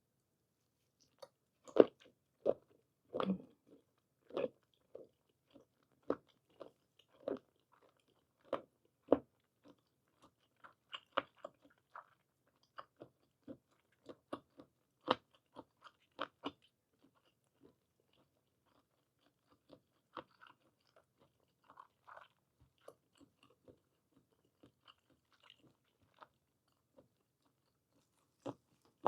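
A person chewing mouthfuls of blanched squid and blanched scallion close to the microphone: a string of short mouth clicks and smacks, one or two a second for the first half, then fewer and quieter.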